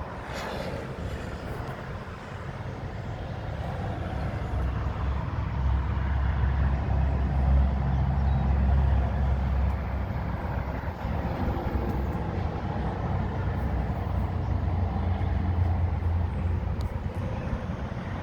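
1992 Volkswagen Corrado's VR6 engine idling with a steady low hum. It grows louder a few seconds in and eases off slightly after the middle.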